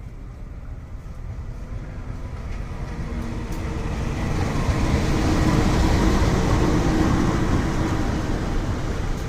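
Dhoho passenger train running past, a rail rumble that builds over about five seconds to a peak and then eases slightly.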